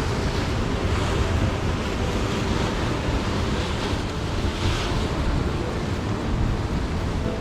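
Sea breeze buffeting the microphone with a steady low rumble, over the wash of ocean surf below the cliff.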